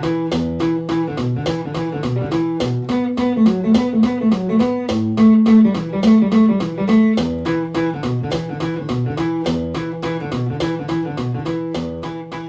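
Electric guitar playing a fast, quickly picked rock instrumental riff on the low strings, with a higher melodic run for a few seconds in the middle.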